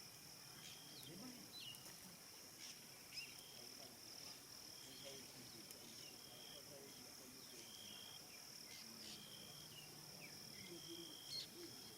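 Faint evening savannah ambience: a steady high-pitched insect drone, with short whistled bird notes repeating every second or two.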